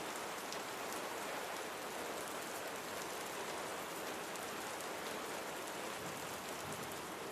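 Steady rain falling: an even hiss of many drops with tiny individual drop ticks.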